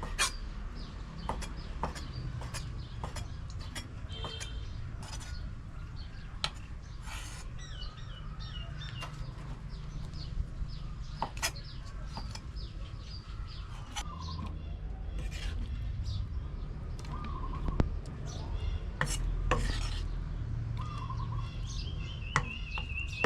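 Scattered clicks, knocks and scrapes of kitchen utensils against pots and dishes, with small birds chirping throughout over a low steady rumble.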